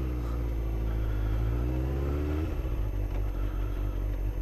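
Motorcycle engine running under way, heard from the rider's position with road and wind noise. Its pitch rises gently, then drops about two and a half seconds in.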